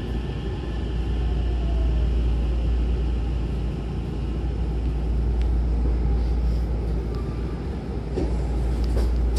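Hankyu commuter train heard from inside the car, a steady rumble of wheels and running gear as it slows along the station platform. A faint whine falls in pitch over the first couple of seconds as the train brakes.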